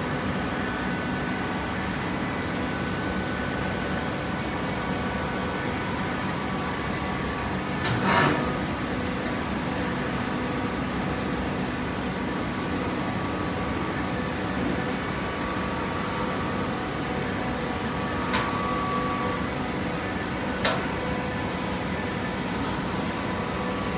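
Hydraulic baling press running: a steady machine hum from its motor and pump, with three short knocks, the loudest about a third of the way in.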